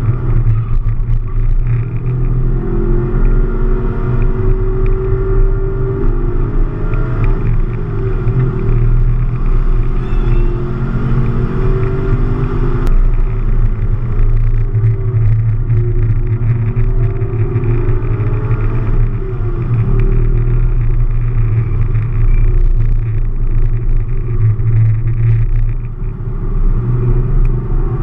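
Camaro SS V8 engine running hard, heard from inside the cabin. Its pitch climbs and drops again and again as the car accelerates and lifts for corners.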